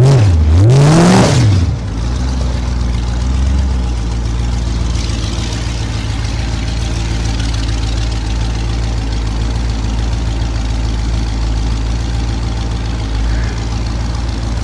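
Small-block Chevy V8, a 383, on a chopper trike, revved hard once near the start, its pitch climbing and falling back within about two seconds, then running steadily at a low, even speed.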